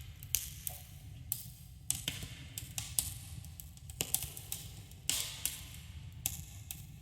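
Campfire crackling: irregular sharp pops and snaps, with a light echo after them, over a steady low rumble.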